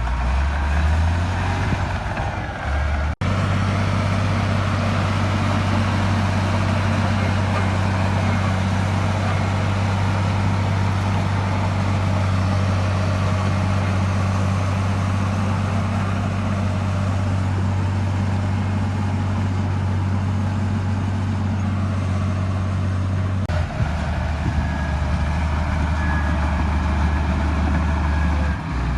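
Heavy diesel engine of earthmoving machinery running steadily under load with a deep, even drone, cut off for a split second about three seconds in.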